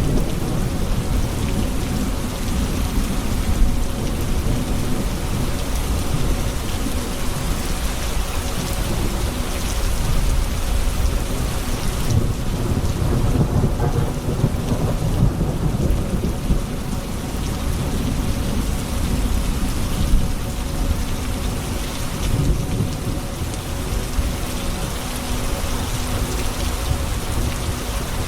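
Steady rain of a thunderstorm falling on surfaces, with low rolling thunder rumbling underneath that swells around the middle.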